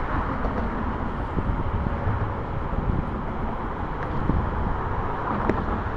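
Steady highway traffic noise with wind rumbling on the microphone.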